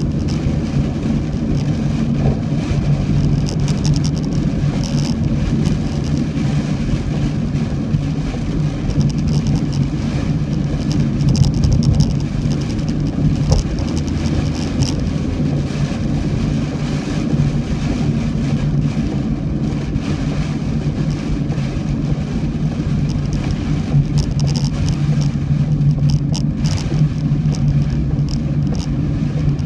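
Car driving in typhoon rain: a steady low engine and road hum, with rain spattering on the car in scattered crackles.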